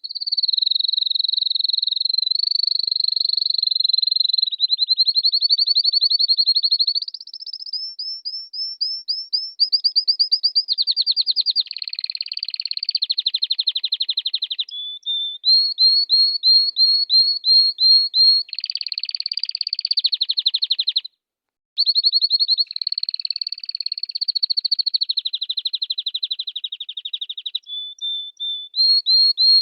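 Domestic canary singing a long continuous song of rapid rolling trills and fast runs of repeated chirping notes, changing from one trill to the next every few seconds. The song breaks off for a moment about two-thirds of the way through, then carries on.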